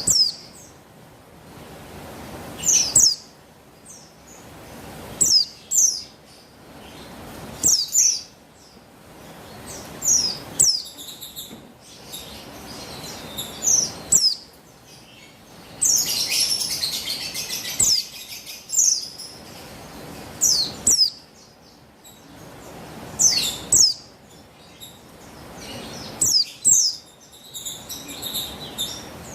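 Female Buxtoni white-eye (pleci) calling: short high chirps that slide down in pitch, coming in clusters every two to three seconds. About sixteen seconds in there is a harsher, hissy stretch lasting about two seconds.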